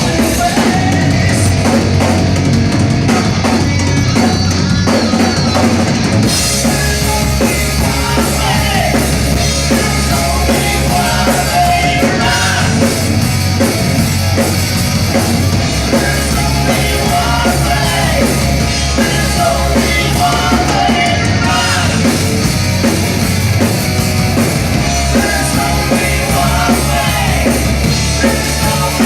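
A live rock band playing loud hard rock, with a drum kit and electric guitars driving a steady beat and a singer's voice coming and going over it.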